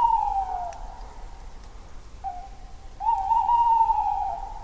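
Tawny owl hooting: a long note that falls away at the start, then a short note, then a long wavering hoot.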